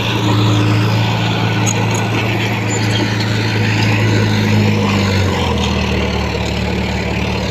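Heavy earthmoving machine's diesel engine running steadily under load, its note stepping down lower about five seconds in.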